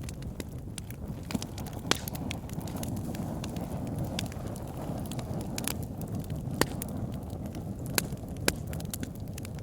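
Campfire burning: a steady low rumble of flames with sharp crackles and pops of burning wood, a handful of them louder.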